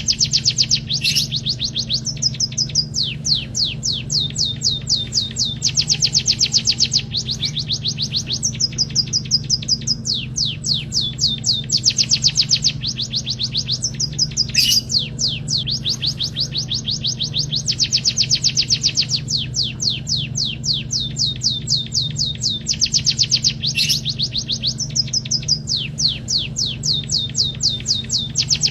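Emprit kaji munia singing steadily: phrases of very fast, high, rattling trills about one to two seconds long, separated by short gaps. A steady low hum runs underneath, with a few sharp clicks.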